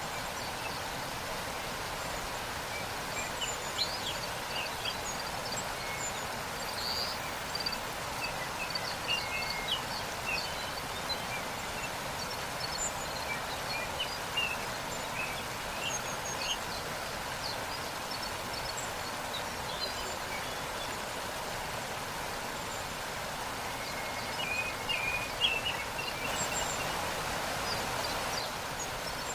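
Waterfall rushing steadily, with small birds chirping in short, scattered calls over it.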